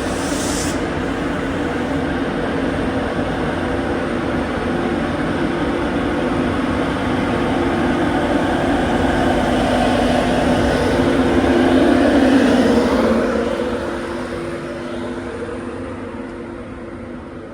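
A train passing. Its steady mechanical drone with a low hum grows louder until about twelve seconds in, then fades away. There is a brief hiss right at the start.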